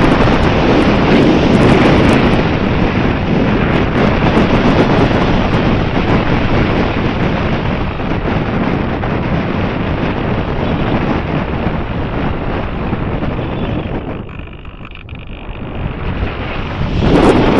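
Wind buffeting the microphone in strong gusts; it eases off near the end, then a sharp gust comes back in.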